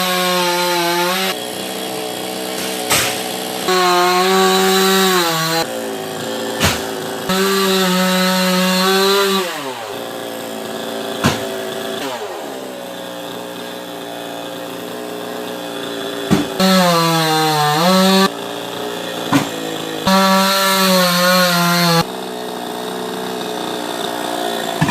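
Two-stroke chainsaw revving to full throttle in cutting bursts, then dropping back toward idle in between. Its note jumps up and down abruptly several times, and there are a few sharp knocks.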